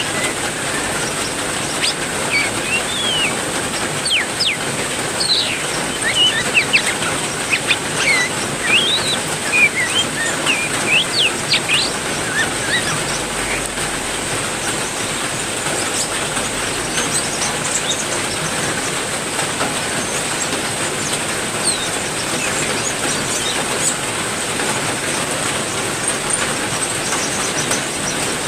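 Steady heavy rain hiss with small caged birds chirping in short rising and falling notes. The chirps are frequent for about the first twelve seconds, then only occasional. A thin, steady high-pitched whine runs under the rain.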